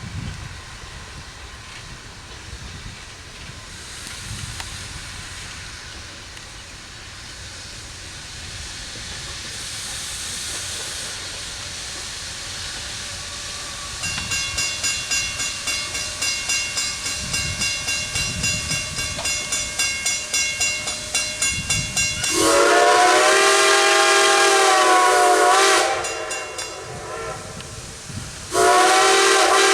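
Former Great Western 2-10-0 steam locomotive No. 90 approaching with a low rumble and hiss. It then works steadily with rhythmic exhaust chuffs, sounds one long blast on its multi-toned chime whistle, and starts another blast near the end.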